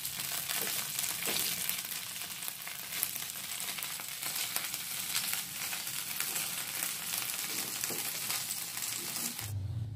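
Corned beef sizzling and crackling in oil in a frying pan as it is stirred with a silicone spatula. The sizzle cuts off suddenly near the end, leaving a faint low hum.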